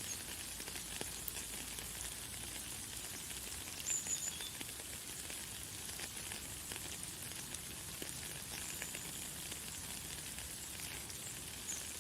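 Light, fine rain falling steadily, a constant hiss dotted with small drop ticks, with a few brief high bird chirps, the loudest about four seconds in.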